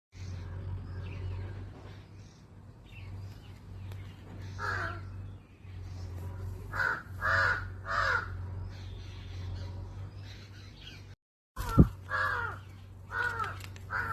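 A bird giving short, harsh calls in bursts: one, then three in quick succession, then more after a short break, over a steady low hum.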